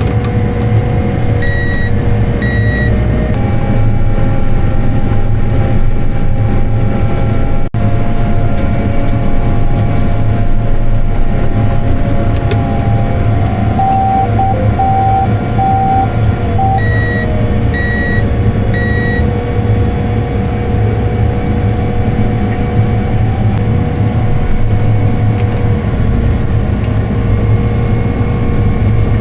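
Tractor engine running steadily under load while pulling a planter with its fans on, a continuous low drone with a few steady whining tones. Groups of short electronic monitor beeps sound a few times: two about two seconds in, four lower ones about halfway through, and three just after.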